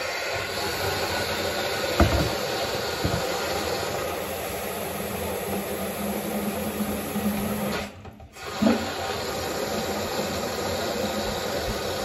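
Kitchen tap water running steadily into a humidifier's water tank as it fills, with a knock about two seconds in. The flow stops briefly about eight seconds in, then starts again with another knock.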